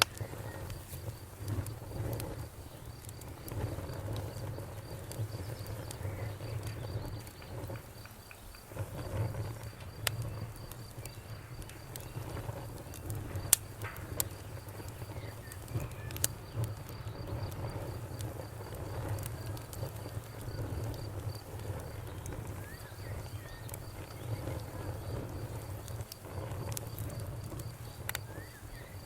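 Bonfire crackling with scattered sharp pops, one louder pop about halfway through, over a low steady rumble, while crickets keep up a high, rapidly pulsing chirp.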